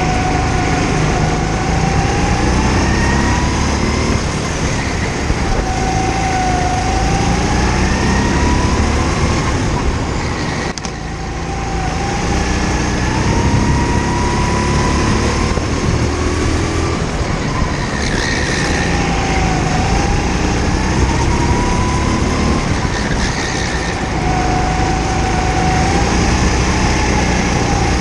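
Kart engine running hard through laps, its pitch climbing on the straights and falling back at each corner, over and over. The note drops briefly about eleven seconds in, as when lifting off.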